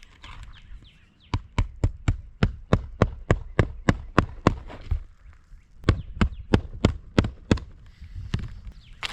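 Hammer driving roofing nails into asphalt shingles: a quick run of about a dozen blows, about three a second, then a short pause and another half-dozen blows.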